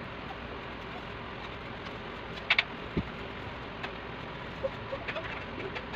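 A bird cooing faintly against a steady background hiss. A pair of sharp clicks comes a little over two seconds in, a dull thud just after, and lighter ticks near the end.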